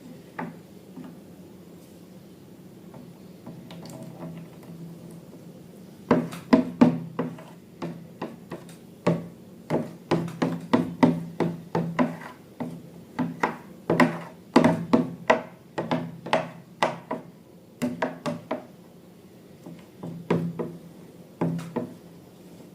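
Irregular sharp taps and knocks, several a second, starting about six seconds in and stopping shortly before the end, over a faint steady low hum.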